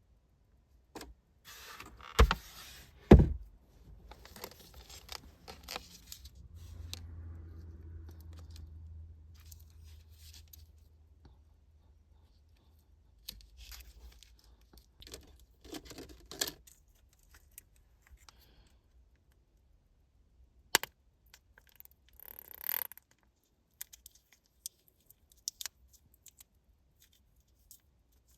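Close handling noises: rustling and scattered clicks, with two sharp knocks about two and three seconds in and a low hum for a few seconds after them.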